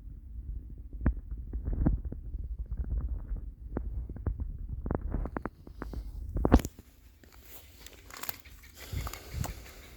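Footsteps crunching through snow, with irregular knocks and a low rumble of handling or wind on the microphone. After a sharp knock about two-thirds through, the rumble drops away, leaving a fainter hiss and a few clicks.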